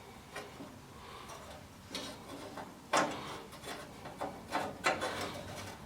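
Handling clicks and light scrapes of small metal parts as a furnace flame sensor is fitted back into its mounting hole, with a sharp click about three seconds in and several smaller ones after it.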